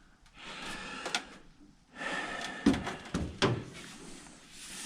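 Metal parts of an old microwave being handled and worked apart: a scraping rattle, then a few sharp knocks and clanks near the middle.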